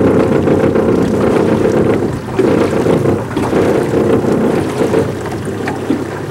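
Steady low drone of a small boat's motor cruising along, with wind buffeting the microphone.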